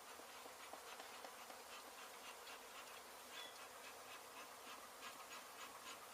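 Faint buzzing of a mass of honey bees from an exposed hive, with scattered light clicks throughout.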